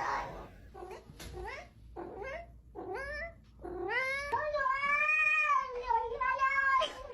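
A domestic cat meowing: about four short calls that rise in pitch, then one long drawn-out meow that rises and falls, starting about halfway through.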